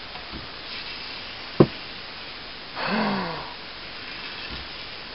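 Steel blade being stroked across a fine 6000-grit water stone slick with nagura slurry, a soft steady scraping hiss. A single sharp knock comes about one and a half seconds in, and a short falling pitched sound near the middle.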